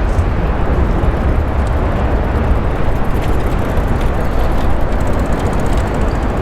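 A train running on the Nankai Koya Line through a level crossing, heard as a loud, steady rumble with no letting up.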